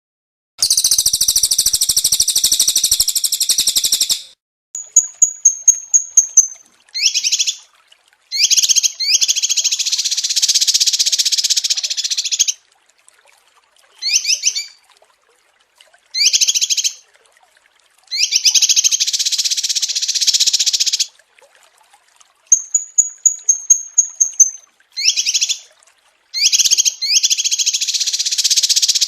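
Small songbirds singing in a clean, edited recording with dead silence between phrases. The song is a fast series of high notes, short quick phrases and long dense buzzy trills, and the sequence repeats about every 18 seconds.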